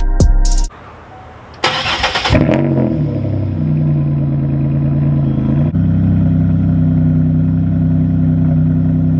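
A car engine cranked by its starter, catching with a brief rise in revs and then settling into a steady idle. The idle note changes abruptly about halfway through.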